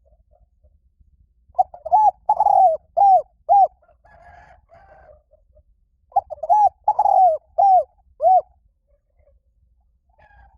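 Spotted dove cooing: two song phrases of about five rounded coo notes each, a few seconds apart.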